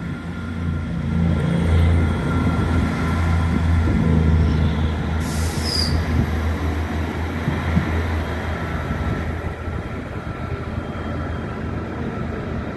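Passenger multiple-unit train running past beneath a station footbridge and pulling away, with a steady low hum that fades as it goes. A brief high hiss about five seconds in.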